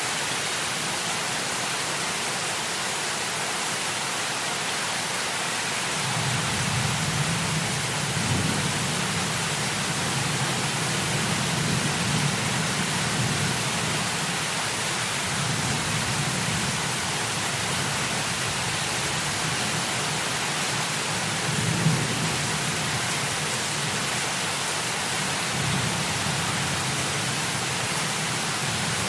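Heavy rain falling as a steady hiss, with low rolls of thunder rumbling in and out from about six seconds in and one sharper clap about three-quarters of the way through.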